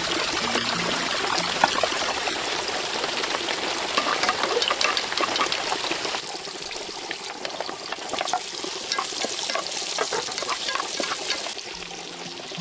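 Pork sizzling in hot fat, with many small pops and crackles; the sizzle thins out a little about six seconds in.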